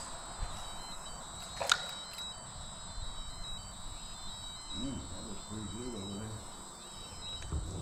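Insects giving a steady high-pitched buzz. A sharp click sounds about a second and a half in, and a faint murmured voice comes near the end.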